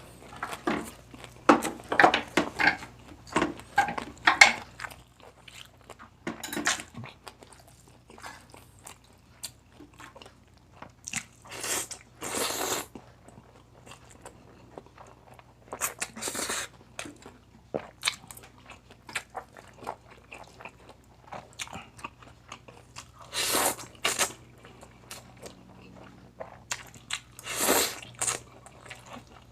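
Close-up eating: a person biting and chewing crunchy crispy pata, dense crackly crunching in the first few seconds, then slower chewing with a few louder noisy bursts.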